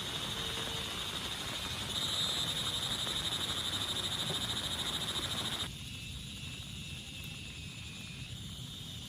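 A steady, high-pitched chorus of calling frogs over the hiss of rain. The rain hiss drops away suddenly about two-thirds of the way in, leaving the chorus clearer and a little lower in pitch.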